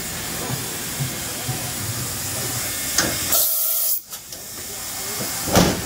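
Steady hissing noise, with a brief, much louder high-pitched blast of hiss a little over three seconds in and a short loud knock near the end.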